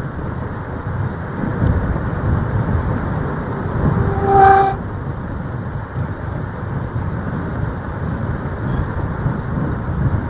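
A vehicle horn honks once, briefly, about four seconds in, over a steady low rumble of road traffic.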